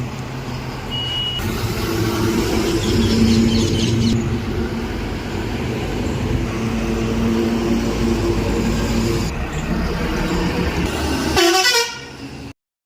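Truck on the road, its engine running under a horn that sounds steadily for several seconds. Near the end a brief rising sweep is heard, then the sound cuts out.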